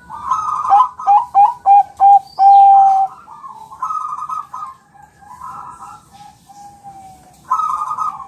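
Zebra dove (Bangkok-type perkutut) singing its cooing song: a burbling opening, a quick run of short clipped coos, then one long held coo about three seconds in. Softer coos follow, then another loud burbling phrase near the end.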